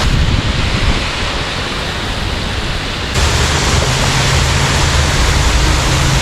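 Steady rushing hiss of falling water, which gets abruptly louder about three seconds in.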